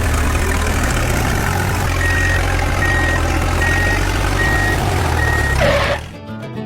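Heavy truck engine running steadily with a reversing alarm beeping five times, about one beep every 0.8 s; the sound cuts off abruptly about six seconds in.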